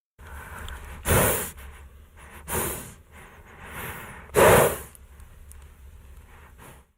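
Horse snorting and blowing through its nostrils: two loud snorts, about a second in and about four and a half seconds in, with softer breaths between them, over a low steady rumble.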